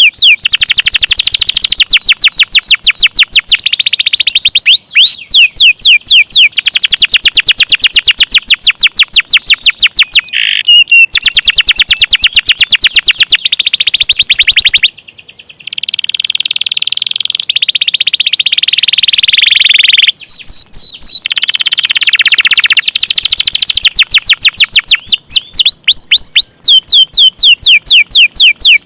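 Domestic canary singing long rolls: fast trills of evenly repeated high notes, a brief break about halfway, then a long trill that slides downward in pitch.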